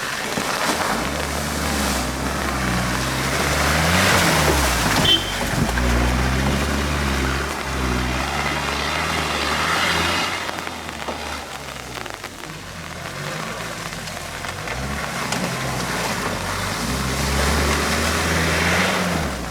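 Tractor engine running with its pitch rising and falling several times as it revs up and eases off.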